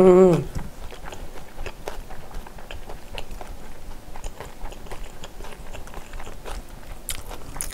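Close-miked, wet chewing of spicy stir-fried pork with rice, with small irregular clicks of a spoon scooping against the bowl and platter. A short hum from the eater comes right at the start.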